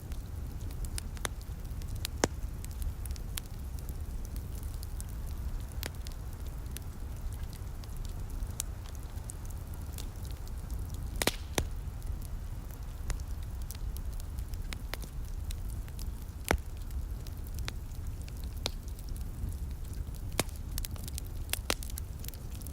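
Wood fire crackling: irregular sharp pops and snaps over a steady low rumble, with a quick run of pops about eleven seconds in and the loudest single pop a few seconds later.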